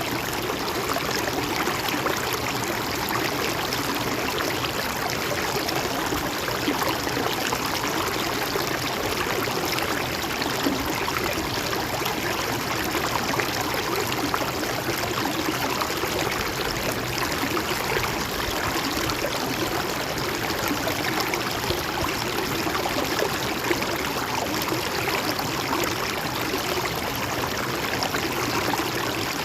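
A river or stream flowing steadily over rocks, a constant rushing and gurgling of water with no change in level.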